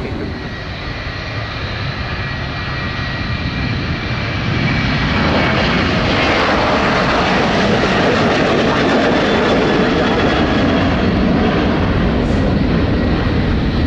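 Airliner engines running at close range on the runway, swelling sharply about four and a half seconds in and then holding loud and steady, as on a takeoff roll or a low pass.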